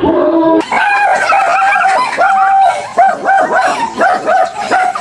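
A dog barking and yelping in quick, high-pitched calls, some drawn out into whines.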